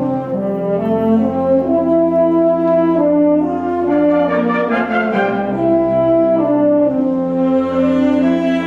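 Wind band playing slow, sustained chords, with French horns and trombones prominent; the held notes move to new chords every second or so.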